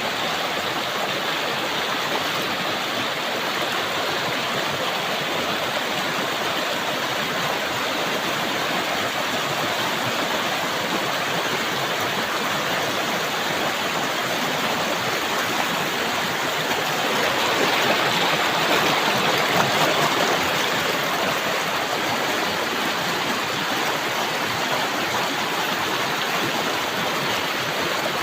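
River water rushing and splashing over rocks, a steady full rush that swells a little about two-thirds of the way through.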